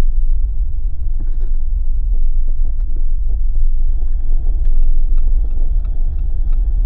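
Jeep driving on a snowy road: steady low road and tyre rumble, with faint light ticks over it.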